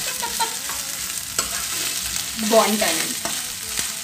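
Baby corn and onions sizzling in hot oil in a non-stick kadai while a spatula stirs them, with scattered scrapes and taps of the spatula against the pan.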